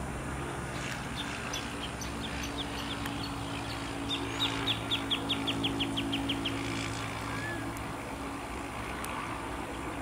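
Wild bird calling: a few scattered short high chirps, then a quick run of about a dozen short, high, falling notes in the middle, over a low steady hum that fades out near the end.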